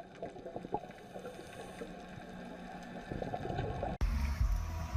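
Muffled water gurgling with small crackles, as heard underwater in a fish tank. About four seconds in it cuts abruptly to a louder low rumble.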